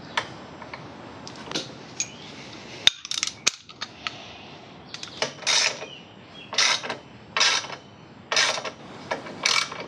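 Hand tool turning a short bolt to fix a heat shield onto a motorcycle exhaust header: a few sharp metal clicks and taps, then a run of short rasping strokes about once a second. The bolt is going into a worn thread that, the owner finds, won't grab.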